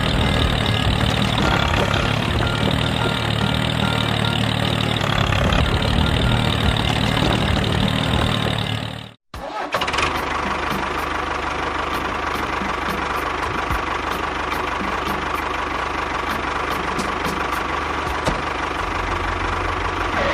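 An engine running steadily. About nine seconds in it cuts out for a moment, then resumes with a steadier tone and a light ticking.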